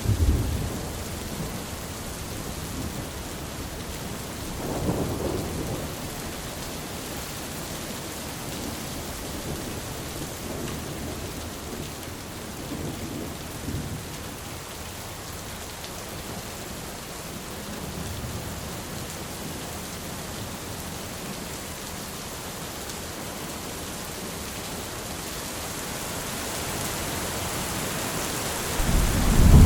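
Steady heavy rain hissing, with rolls of thunder: a rumble about five seconds in, fainter ones later, and a loud roll building near the end.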